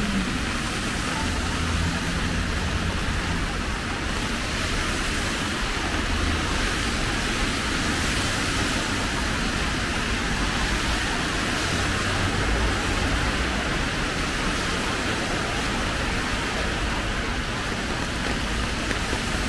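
Steady rain, an even hiss with no separate drops standing out, over an uneven low rumble of road traffic.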